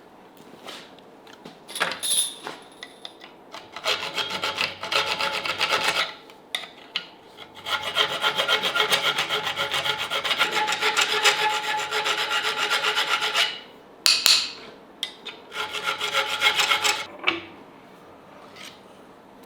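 Hand filing: quick back-and-forth rasping strokes in two long runs, with a few short knocks in between.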